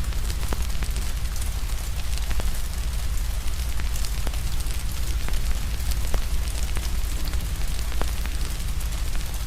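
Fire crackling with scattered sharp pops over a steady low rumble, with an even hiss of rain.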